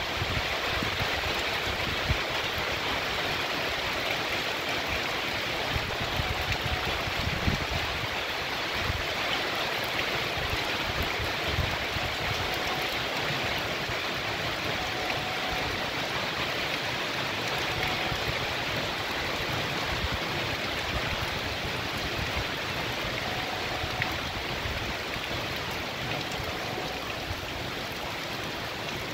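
Heavy rain pouring steadily onto a tree and wet pavement.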